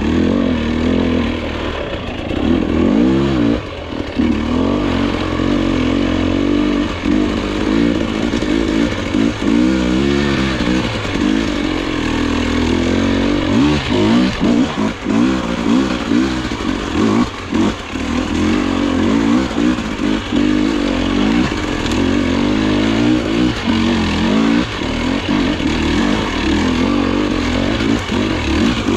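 Dirt bike engine being ridden on a rough trail, the revs rising and falling constantly with the throttle.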